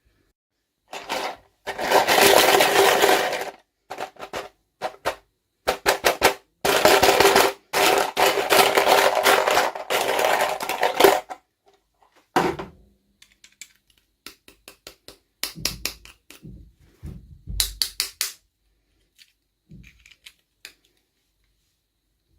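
Packaging of a miniature toy being unwrapped: two long stretches of loud crinkling and tearing. After them come scattered light clicks and soft knocks as small pieces are handled.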